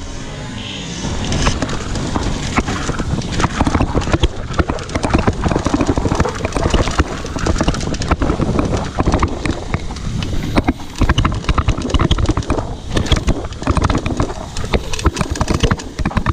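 Mountain bike rattling and clattering over rough, rocky trail: a dense, irregular run of knocks and clicks from tyres, frame and drivetrain, starting about a second in.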